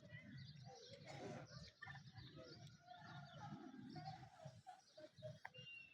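Faint morning birdsong: several birds chirping and whistling in short phrases over a low background rumble.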